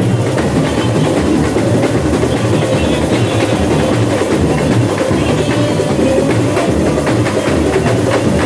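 Samba bateria, a carnival percussion ensemble, playing a samba: loud, steady drumming with deep bass drums under a dense stream of sharp, quick strokes.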